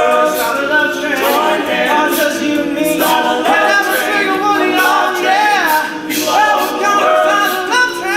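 A cappella vocal group singing a song, several voices in harmony with no instruments.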